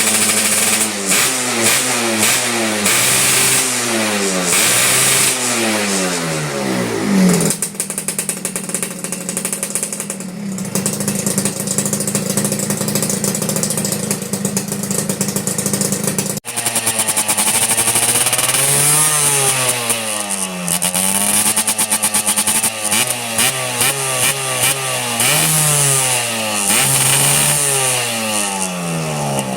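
Suzuki Satria two-stroke motorcycle engine revved up and down again and again, with a stretch held at a steadier speed in the middle and a brief drop about halfway through before the revving resumes.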